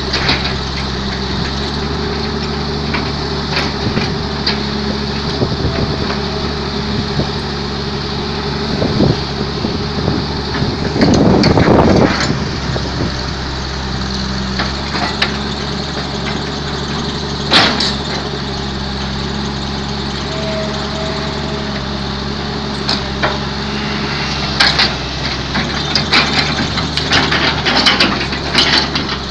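Hyundai Robex 210LC excavator's diesel engine running steadily, with a louder rushing surge about eleven seconds in and a sharp knock a few seconds later. Near the end come a run of knocks and clanks.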